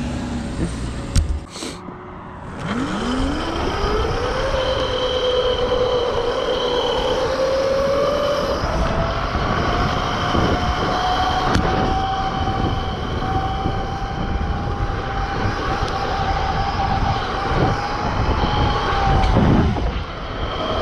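Electric mini bike's 72-volt, 6,000-watt motor whining as it accelerates hard: the whine sweeps up steeply about three seconds in, keeps climbing slowly at speed, and dips near the end. A low rushing noise runs underneath.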